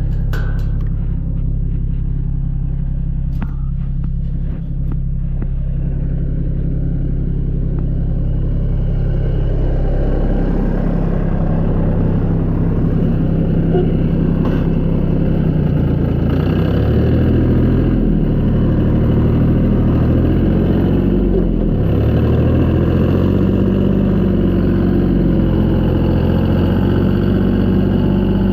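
Tractor engine running. It picks up speed about ten seconds in, then its pitch falls and rises several times as the engine works.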